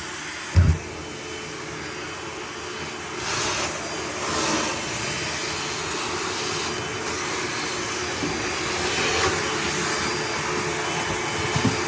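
Steady rushing roar of a vacuum or blower used for dryer vent cleaning, with a few louder whooshes of air and a short thump about half a second in.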